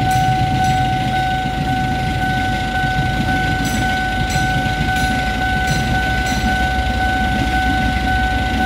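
Argo Cheribon passenger train running past a level crossing with a steady low rumble, its wheels clicking over rail joints about every 0.7 seconds. Over it, a continuous steady electronic tone sounds from the crossing's warning alarm.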